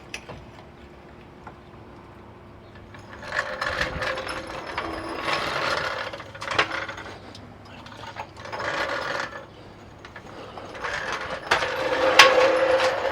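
A jack being worked to lift a pickup truck: several bursts of metallic ratcheting, clicking and creaking.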